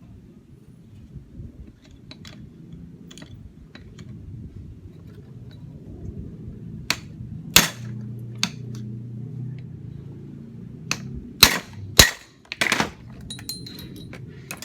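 Hammer blows on a hand impact (shock) driver tightening the starter motor's screws: about six sharp metallic strikes in two groups, a few fainter taps before them, over a low steady hum.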